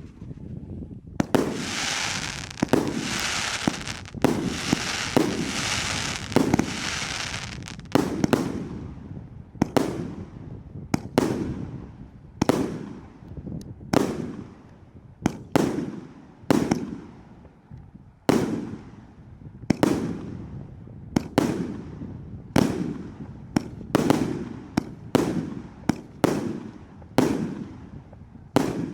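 Consumer fireworks cake firing. About a second in, several seconds of dense crackling mixed with bangs; then single shots bursting about twice a second, each with a short fading tail.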